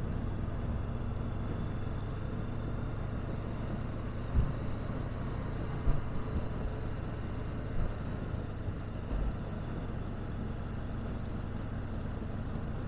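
Honda CB500X parallel-twin motorcycle engine running steadily at a slow riding pace, with a few brief low thumps in the middle.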